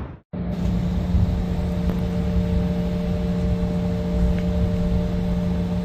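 Steady vehicle drone: a running engine with road and wind noise, holding a constant low hum with fainter higher tones. It starts just after a brief gap near the beginning.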